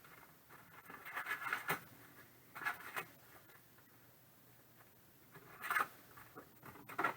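Trading cards being flipped through by hand, a handful of short papery swishes as cards slide over one another, with quiet gaps between them.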